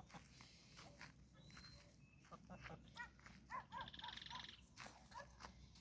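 Faint sounds of a pair of gamefowl foraging in grass: soft pecking clicks, with a few short chirping calls about three seconds in and a brief buzzing trill just after.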